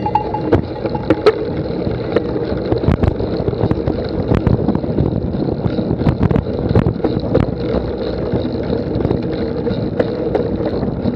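Steady rumbling wind noise on a moving camera's microphone, with frequent irregular knocks and rattles.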